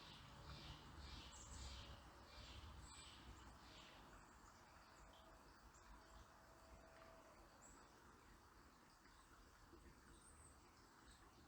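Faint bird calls: a run of short, evenly repeated high notes, about two a second, that stops a few seconds in. A few thin, very high chirps follow over a faint steady hush.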